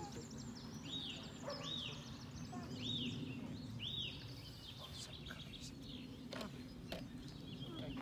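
A small bird calling: four short, arched chirps about a second apart in the first half, over a steady low background rumble, with a few sharp clicks later on.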